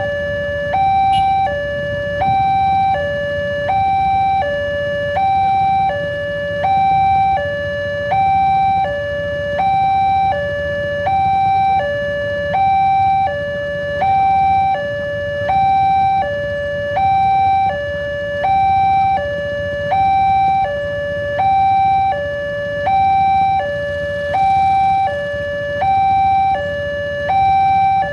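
Level crossing warning alarm sounding continuously, alternating evenly between a high and a low tone, one high-low pair a little over once a second: the signal that a train is approaching and the barrier is down. A steady low rumble runs underneath.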